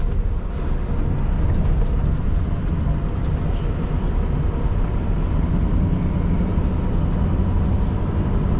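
Scania R620's V8 diesel engine running steadily under way, with road noise: a continuous low rumble.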